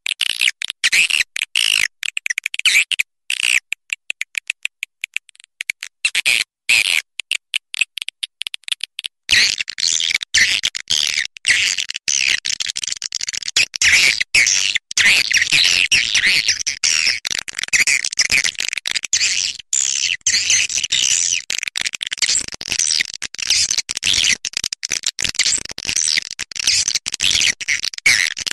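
Swiftlets chittering, a mass of high, rapid chirps that comes in broken spurts at first and thickens into a dense continuous chorus about nine seconds in.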